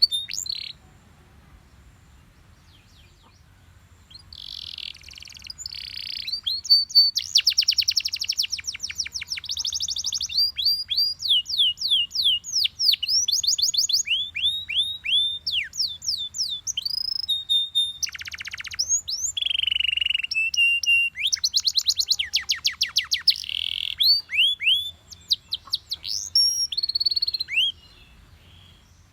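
Yellow Belgian canary singing a long song of rapid trills and quick downward-sweeping whistled notes. It starts a few seconds in after a short pause and breaks off shortly before the end.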